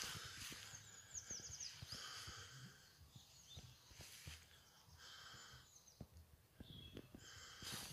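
Faint birdsong: a quick run of high notes, each dropping in pitch, about a second in, with other high calls scattered through. Soft footsteps on the forest floor run underneath.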